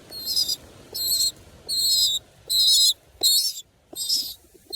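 Baby pigeon (squab) squeaking: a steady series of six short, high-pitched squeaks, each under half a second, about one every three-quarters of a second. It keeps calling for food although its crop is full.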